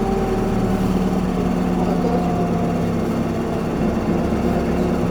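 Isuzu Erga city bus's four-cylinder diesel engine and drivetrain running, heard from inside the cabin: a steady low drone whose pitch sinks slightly in the first couple of seconds.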